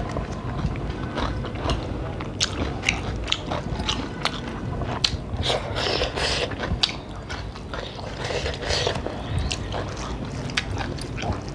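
Close-miked chewing and eating sounds of rice and curry being eaten by hand, with frequent short wet smacks and clicks of the mouth.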